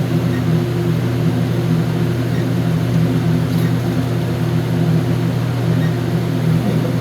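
Steady low mechanical hum with several even-pitched tones in it, holding level throughout.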